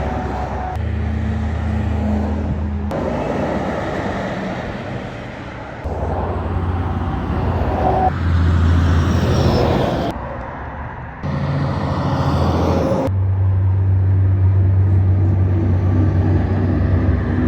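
Semi trucks passing on a road: low diesel engine tones over tyre and road noise. The sound changes abruptly several times as short clips are cut together.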